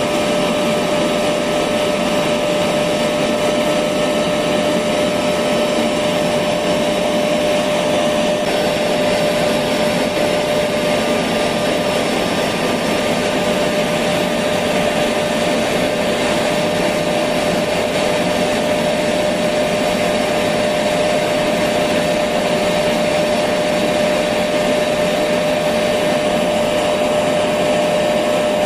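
Electric vacuum cleaner running continuously: a steady, even motor whine and rush of air with no change in speed.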